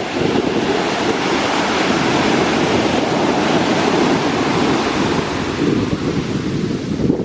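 Atlantic Ocean surf breaking and washing up the beach, a steady hiss that swells through the middle. Wind is buffeting the microphone, adding a constant low rumble.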